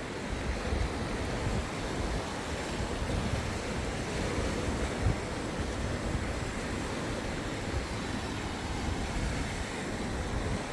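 Sea waves washing onto the beach, with wind buffeting the microphone in an uneven low rumble.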